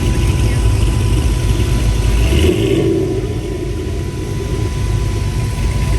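Car engine running close by with a low rumble that eases off about halfway through.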